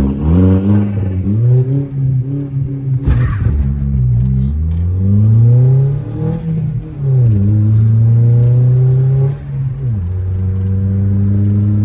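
Muffler-deleted Audi A4 launched and accelerating hard. The engine note climbs and drops back at each gear change, and there is a sharp crack about three seconds in. The revs dropped off the launch, so it lost boost.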